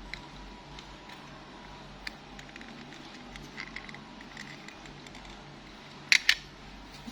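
Plastic toy cars being handled: a few faint clicks and taps, then two sharp clicks close together near the end, over a steady low hum.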